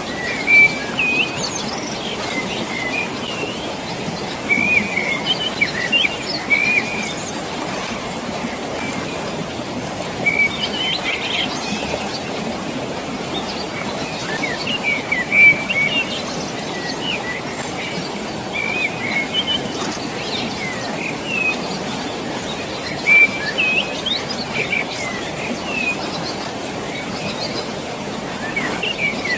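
Small birds chirping in short bursts every few seconds over a steady rush of flowing water.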